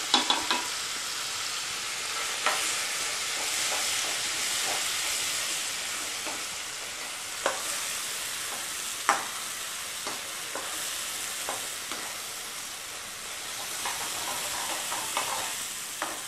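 Ground urad dal thuvayal paste sizzling in hot tempering oil in a kadai, stirred and sautéed with a spatula that knocks and scrapes against the pan every few seconds.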